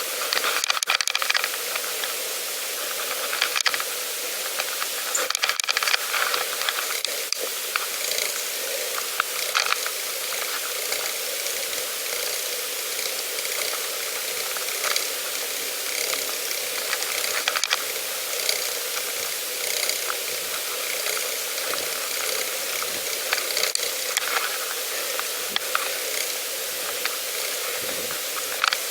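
Pedal bike riding along a path: a steady hiss of the tyres rolling, with scattered crackles and clicks.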